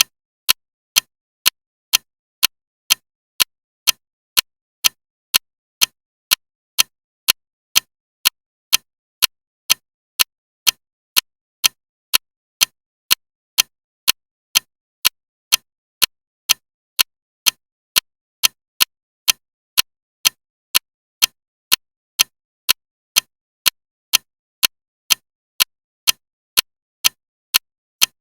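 Clock ticking loudly and evenly, sharp clicks a little over two a second with silence between them.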